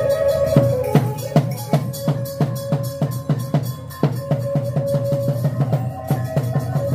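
Khmer chhay-yam drum-dance music: drums beating a steady rhythm of about three strokes a second under a held melodic line.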